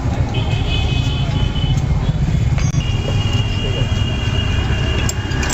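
Bajaj Discover 135's single-cylinder engine running with a rapid, low beat, while a steady high-pitched tone comes and goes over it.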